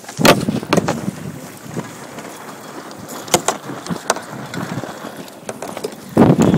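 Wind and water noise aboard a Sunfish sailboat, with scattered sharp knocks. A louder rush of wind on the microphone comes near the end.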